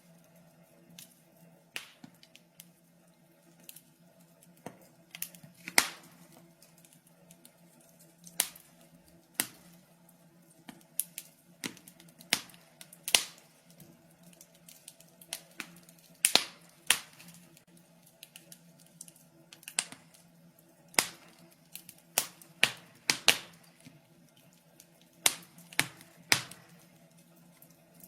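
Wood fire in a fireplace crackling: irregular sharp pops and snaps, a few loud ones among many small clicks, over a faint steady low hum.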